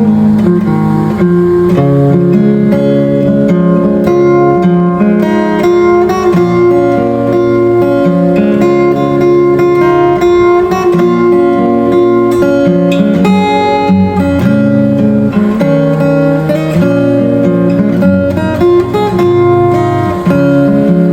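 Solo fingerstyle acoustic guitar playing a melody over bass notes and chords, with notes ringing over one another.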